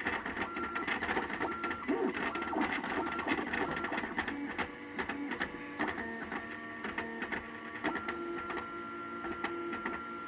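MakerBot Thing-O-Matic 3D printer printing, its stepper motors whining in steady tones that jump to a new pitch with each move of the head, with many small ticks throughout.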